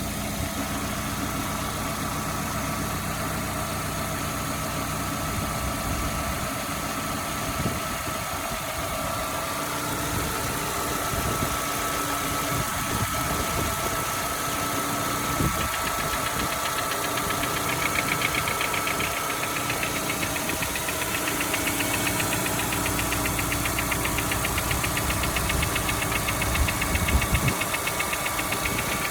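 Volkswagen Golf V's 1.6 BSE four-cylinder petrol engine running with a knocking noise, a fast ticking that grows a little louder in the second half.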